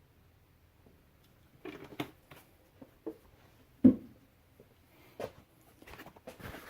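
Handling noises while finishing an engine oil fill: after a quiet first second and a half, a scattering of short knocks and clicks, the loudest a single knock about four seconds in.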